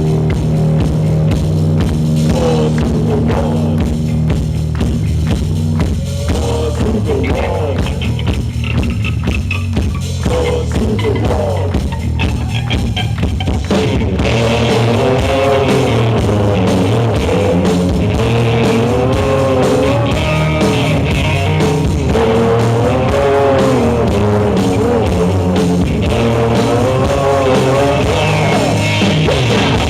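Rock band playing live: drum kit and guitars, with a wavering melodic line standing out over them from about halfway through.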